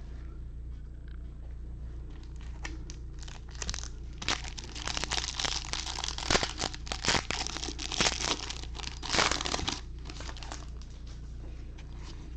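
Crinkling and crackling of a plastic trading-card pack wrapper being handled and torn, busiest from about four to ten seconds in, over a steady low hum.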